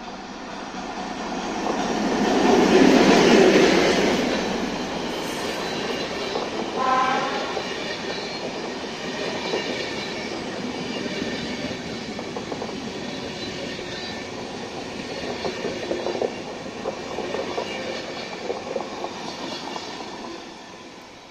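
EIC Jantar express passenger train passing by. It is loudest about three seconds in, then the carriages roll past with the clickety-clack of wheels over rail joints, fading near the end. A short tone sounds about seven seconds in.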